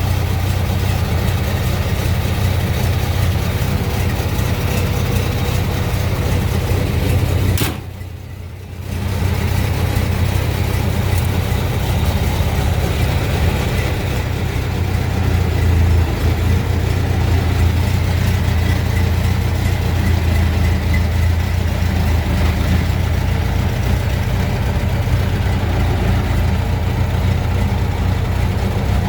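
1927 Ford Model T's freshly rebuilt four-cylinder flathead engine idling steadily. About eight seconds in there is a click, and the sound drops for about a second.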